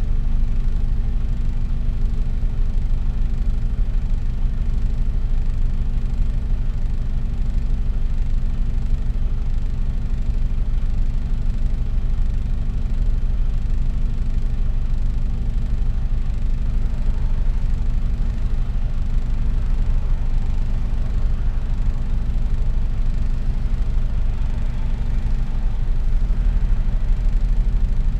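Mercedes-Benz Actros truck driving along, a low, steady rumble of engine and road noise picked up inside the cab by the dashcam.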